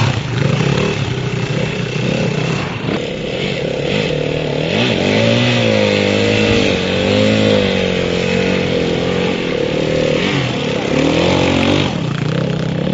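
Motorcycle engine running, its pitch rising and falling again and again as the throttle is opened and eased off.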